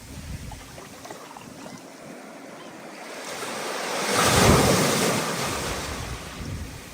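Stormy ocean surf: a wave builds, breaks loudly about four and a half seconds in, then slowly washes out, with wind in the background.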